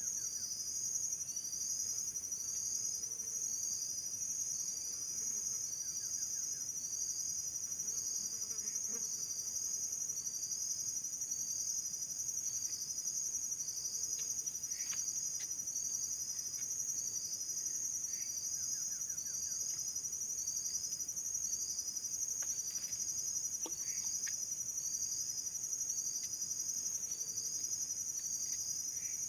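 Insects shrilling: a steady high-pitched drone with a regularly repeating chirp about one and a half times a second, and a few faint scattered calls.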